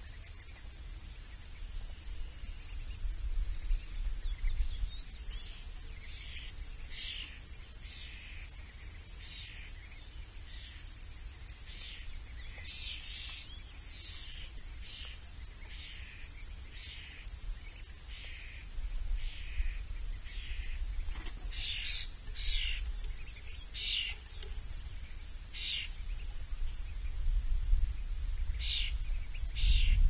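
Small birds chirping, with many short, high chirps coming irregularly and busiest in the middle and near the end. A steady low rumble runs underneath and grows louder in the second half.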